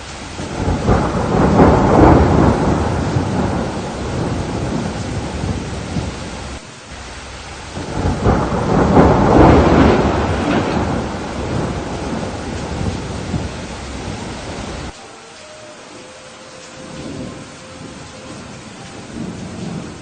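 Thunderstorm with steady rain and two long rumbles of thunder, the first peaking about two seconds in and the second about nine seconds in, each fading over several seconds. About fifteen seconds in the rumble cuts off suddenly, leaving only the hiss of the rain.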